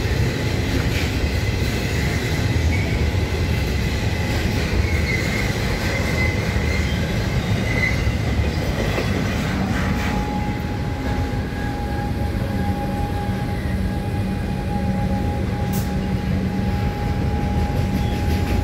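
Container goods train rolling through, a steady heavy rumble of wagons and wheels on the rails with a faint high squeal in the first half. About halfway through a steady hum joins in.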